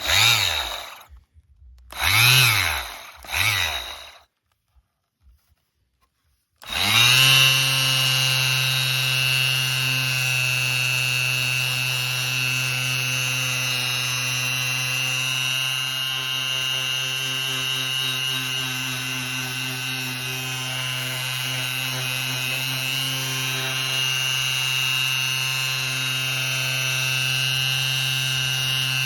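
Bosch GSS 23 AE orbital finishing sander: two short bursts near the start, its motor whining up and straight back down each time. From about seven seconds in it runs steadily at a constant pitch.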